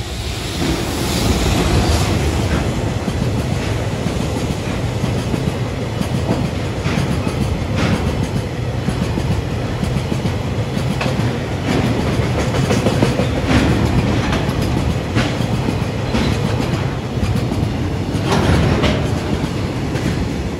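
An EF210 electric freight locomotive passes close by, followed by a long string of tank cars rolling past. There is a steady rumble, with the wheels clacking over rail joints again and again. The sound builds over the first couple of seconds as the locomotive arrives.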